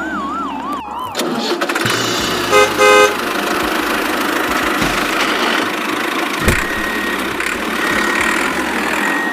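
A vehicle horn honks twice in quick succession about two and a half seconds in, over a steady engine-like running noise. A wavering, warbling tone comes just before it, and short high beeps at about one a second start near the end, like reversing beeps.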